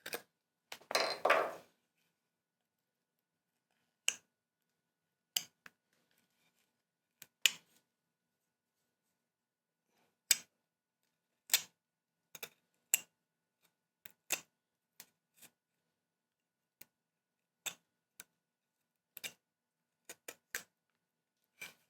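Hand carving tools cutting into wood: a short scraping stroke about a second in, then a couple of dozen sharp, isolated taps and clicks at irregular intervals.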